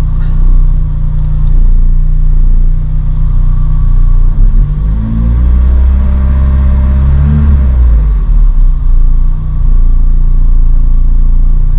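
Lotus Elise engine idling, revved once in the middle and settling back to idle. A steady whirr runs under it and does not change with the revs; the owner suspects the fuel pump, which he feels has got louder recently.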